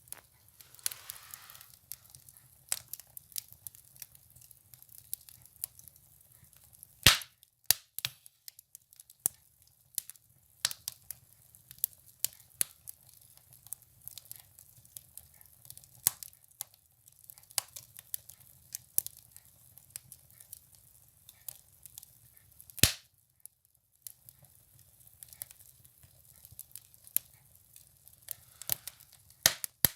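Firewood burning in a stove, crackling with irregular sharp pops, and two much louder snaps, one about a quarter of the way in and one about three quarters in.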